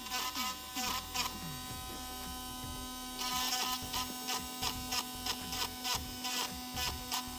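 Small electric drill running with a steady hum while drilling out a rusted stone chip in car paint.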